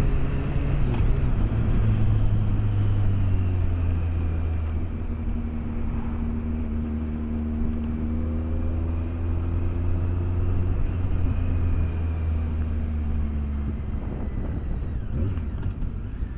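BMW K1200S inline-four engine running at a steady cruise under wind and road noise, heard from a microphone inside the rider's helmet. The engine note eases off near the end.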